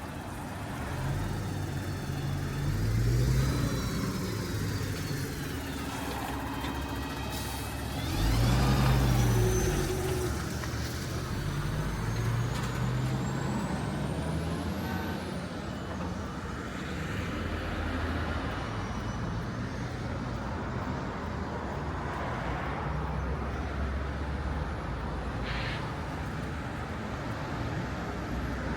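City street traffic: vehicles pass by with their engines rising in pitch as they pull away, the loudest passes about 3 and 9 seconds in. A high whine rises and then falls near the middle.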